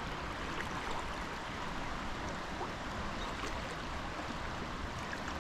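Floodwater rushing in a swollen creek: a steady wash of water noise.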